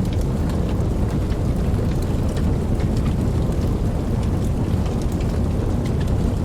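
Steady rain: a dense, even rush with a deep low rumble underneath and many scattered drop ticks on top.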